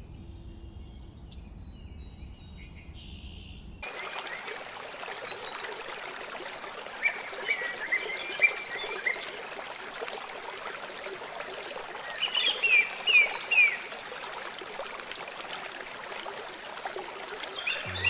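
Outdoor nature ambience: songbirds chirping in two runs of quick, repeated notes over a steady hiss like running water. A low rumble fills the first few seconds and then gives way to the hiss.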